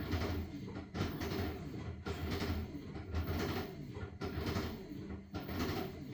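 LG washing machine in its wash cycle, the drum tumbling the blankets through water with a sloshing, churning sound that swells and eases about once a second.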